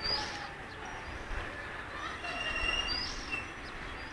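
Birds chirping: a few short high calls and one brief whistled note over a steady background noise.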